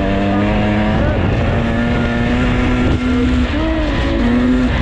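GasGas EC300 two-stroke dirt bike engine running loud at fairly steady revs while riding, its pitch stepping up and down a few times with the throttle.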